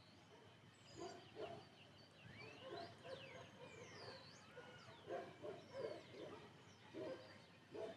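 Faint outdoor birdsong: many short high chirps and whistles rising and falling in pitch. Beneath them come short low calls of more distant animals, several in quick clusters.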